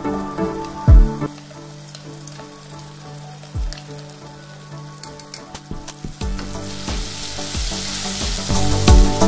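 Ground chili, shallot and garlic spice paste frying in a little hot oil in a pan, the sizzle building from about seven seconds in as it is stirred with a wooden spatula. A heavy low thump about a second in, and a smaller one a few seconds later.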